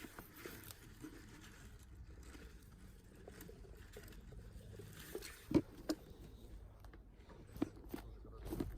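Faint rustling on a forest floor with a few sharp crunches and snaps, loudest twice a little past halfway: someone moving about over forest litter.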